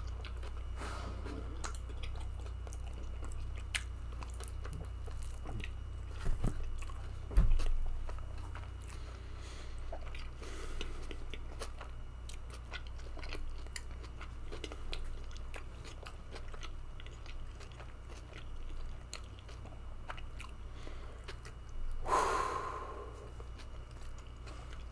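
Close-up chewing of a mouthful of pizza with small wet mouth clicks over a steady low hum. There is a single thump about seven seconds in and a short voiced sound from the eater near the end.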